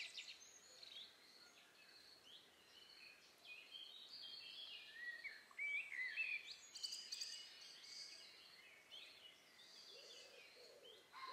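Faint birdsong: several small birds chirping in short calls that rise and fall in pitch, over a soft background hiss.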